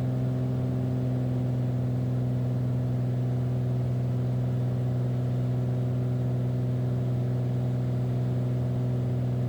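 Beechcraft Bonanza's piston engine and propeller running at steady climb power just after takeoff, with the propeller pulled back to climb RPM: a constant, even drone with no change in pitch.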